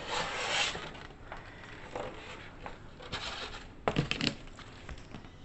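Rustling and scraping from handling the boxed portable washing machine and its packaging, with a few sharp knocks about four seconds in.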